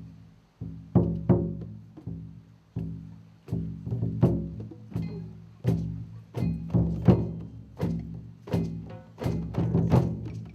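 Drums struck by hand in a drum circle: irregular strokes, each ringing with a low pitched tone, growing denser toward the end.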